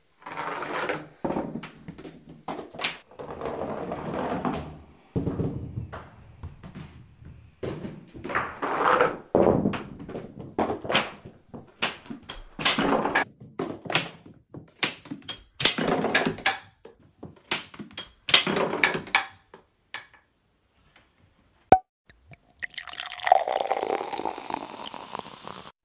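Five marbles rolling and clattering down a home-made staircase marble run: a long string of irregular knocks, taps and rattles that dies away about twenty seconds in. A single sharp click follows, then a brief rushing noise near the end.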